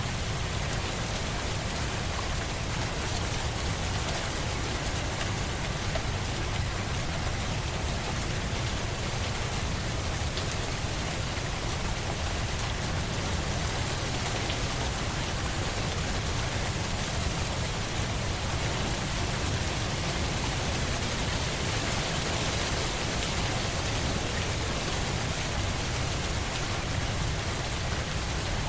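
Steady rain falling on a surface, an even hiss of drops with a low rumble beneath, unchanging throughout.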